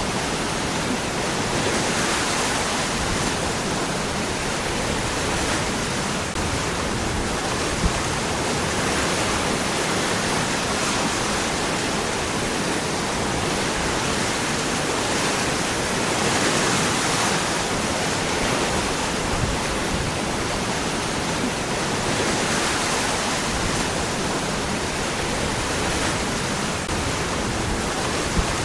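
Waterfall: water falling and rushing over rocks in a steady, dense rush that swells gently now and then.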